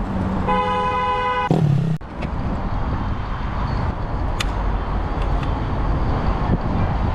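A vehicle horn sounds once, held for about a second. After that comes steady road and engine rumble with a few sharp clicks.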